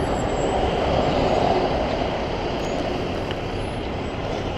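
Steady vehicle rumble and road noise that swells slightly about a second in.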